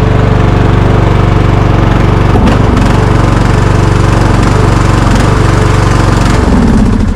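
Small engine of a riding lawn mower rigged as a snow plow, running steadily just after a cold start; the owner says it isn't liking the cold and suspects it may be low on gas. Its note shifts near the end.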